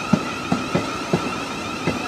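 Thameslink Class 700 Desiro City electric train running past, its wheels clacking over rail joints about five times, with a steady high whine underneath.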